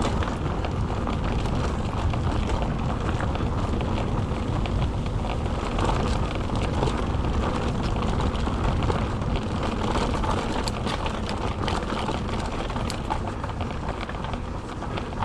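Mountain bike riding over a rough, rocky track: a steady rumble of tyres and rattle of the bike, with scattered sharp clicks and knocks.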